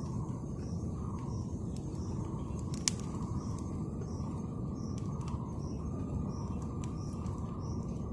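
Outdoor ambience: a steady low rushing noise with a soft, high chirp repeating evenly about every two-thirds of a second, and scattered sharp clicks, one louder about three seconds in.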